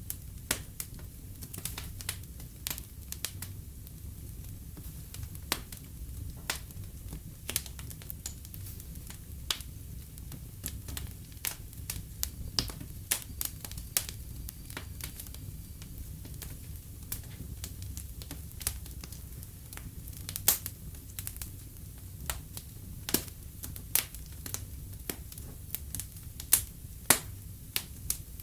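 Wood fire crackling in a fireplace: a steady low rumble of the burning fire with frequent irregular snaps and pops, a few sharper pops in the second half.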